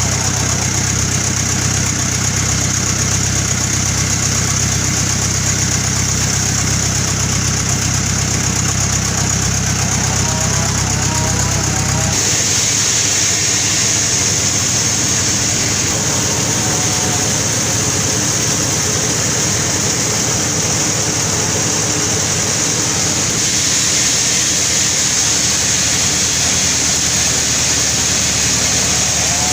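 Engine-driven sawmill running steadily, its saw working through a very large albasia log. The deep engine rumble drops away suddenly about twelve seconds in while the saw noise carries on.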